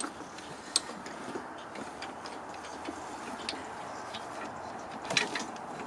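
A few scattered sharp metallic clicks and knocks from work on an engine being pried free of its transmission, over a steady background hiss; the clearest come about a second in, midway, and in a short cluster near the end.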